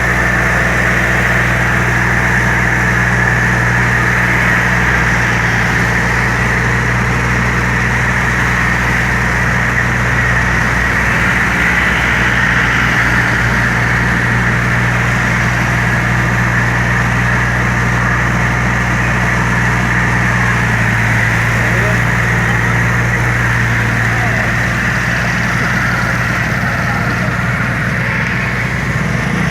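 Sonalika 40 HP tractor's diesel engine running steadily at an even pitch.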